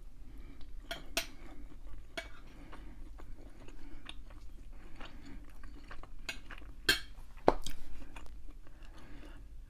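Close-up chewing of hibachi chicken, steak and vegetables, with scattered sharp clicks of utensils on a dish. The loudest click comes about seven and a half seconds in.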